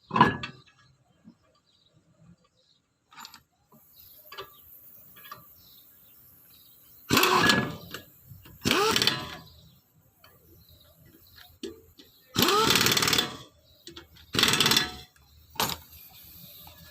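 Impact wrench running in four short bursts of about a second each, as on a car's wheel lug nuts during a tire change.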